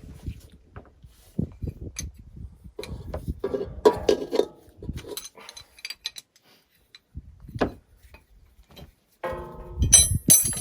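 Scattered clicks, knocks and clinks of hand tools and metal fittings being handled during hydraulic service work, with a louder metallic clatter and a brief ring near the end.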